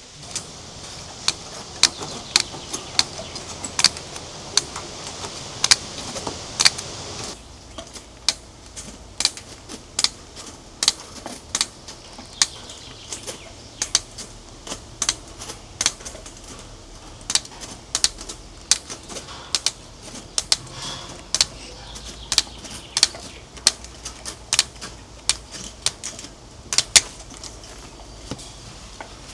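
A long run of sharp knocks, about two to three a second at an irregular pace, over a steady hiss that stops about seven seconds in.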